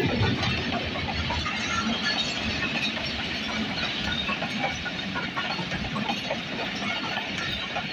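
Passenger train coaches rolling past close by, their steel wheels clattering on the track under a steady rumble and hiss. The diesel locomotive's louder low rumble has just gone by and eases off as it begins.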